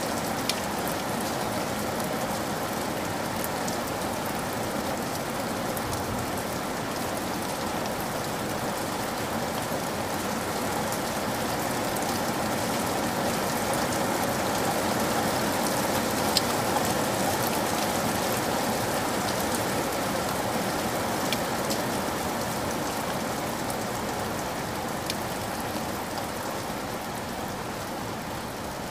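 Steady rain sound: an even hiss of falling rain with scattered sharp drop clicks.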